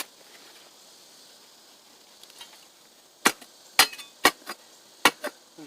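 A digging tool striking hard, dry clay soil and a buried rock, with about six sharp chopping strikes in the last two and a half seconds after a quiet start.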